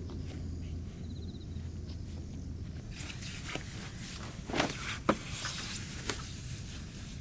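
A low steady rumble that drops away about three seconds in, then a scatter of sharp clicks and knocks, two of them louder, about four and a half and five seconds in.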